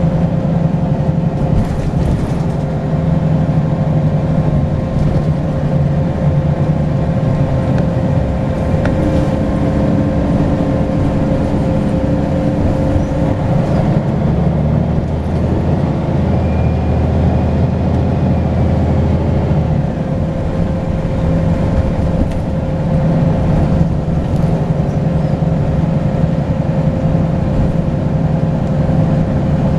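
Volvo B10BLE bus's six-cylinder diesel engine running under way, with a steady high turbocharger whistle over it. The engine note shifts twice in the middle as the bus changes speed.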